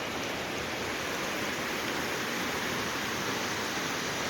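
Flowing water rushing steadily, a constant even hiss with no breaks.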